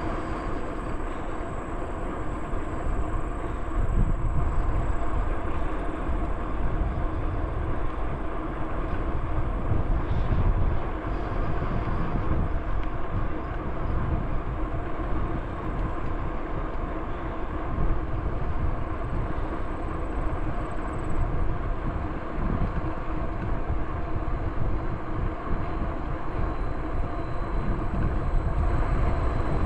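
Bicycle riding along a paved trail: a steady hum from the tyres and drivetrain, with wind gusting on the microphone.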